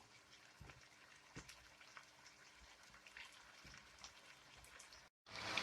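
Chicken frying in oil and masala over a high flame: a faint sizzle with scattered small crackles. Near the end, after a brief drop-out, a short louder burst of sizzling.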